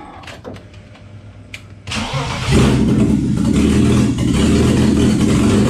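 BMW M52TU inline-six, fitted with an M50 intake manifold, starting. After a few faint clicks, the starter cranks about two seconds in, the engine catches within about half a second, and then it keeps running steadily.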